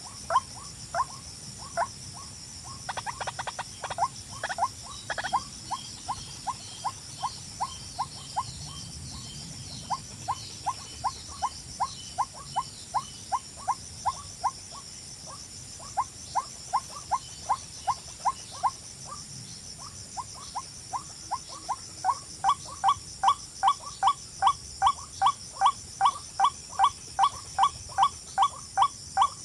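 A bird calling in a long series of short, sharp chirps at about two to three a second, growing louder and more regular about three quarters of the way through, over a steady high-pitched drone.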